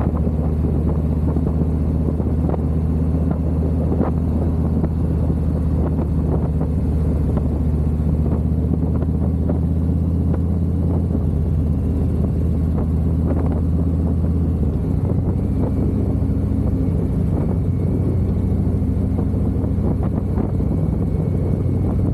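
Harley-Davidson V-twin engine running steadily while the motorcycle is ridden, with road and wind noise; the engine note steps down about fifteen seconds in.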